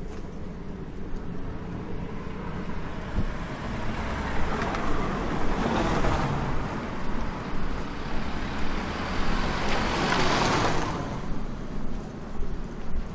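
Outdoor ambience on a walk: a steady low rumble with two swells of rushing noise, each building over a couple of seconds and then fading, the second louder.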